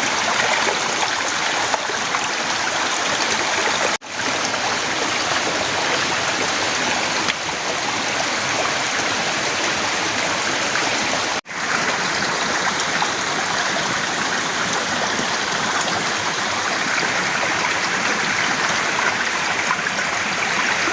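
Heavy rain falling in a steady, dense rushing hiss. It cuts out abruptly for an instant twice, about four and eleven seconds in, then resumes.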